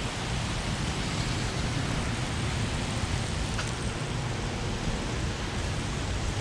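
Steady rain hiss, even and unbroken, with a low rumble underneath.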